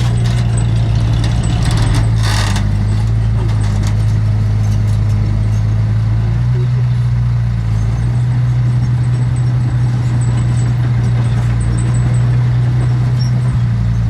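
Heavy diesel engine of earthmoving machinery running steadily, its pitch stepping up or down slightly a couple of times, with a short hiss about two seconds in.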